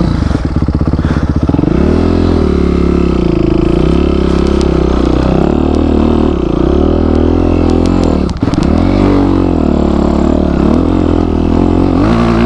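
Motorcycle engine revving up and down while riding a steep off-road slope, with a brief cut in engine sound about eight seconds in.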